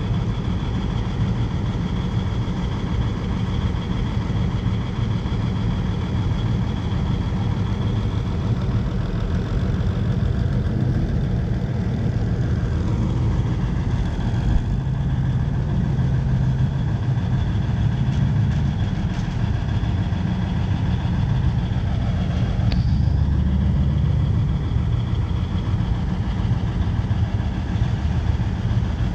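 Car engines idling and creeping past as show cars pull out, a steady low exhaust rumble that swells a little as one passes close near the end.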